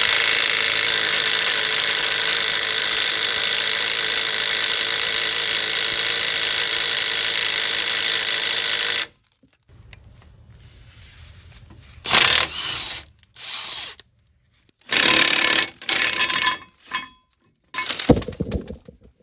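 A power tool driving a 13/16-inch socket runs steadily for about nine seconds, spinning a caliper bracket bolt out easily, then cuts off suddenly. A few short separate bursts of sound follow in the second half.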